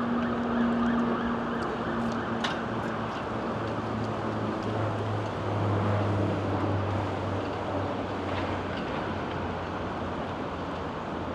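City street ambience: steady traffic noise with a low engine hum that swells in the middle, and a few light clicks about two and a half seconds in.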